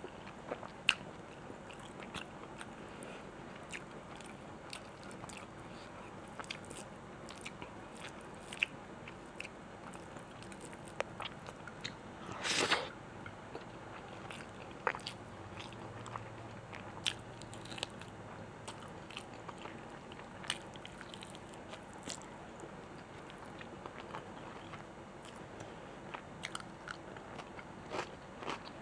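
A person chewing and biting food close to the microphone, with many short crisp crunching clicks and one louder, longer crunch about halfway through.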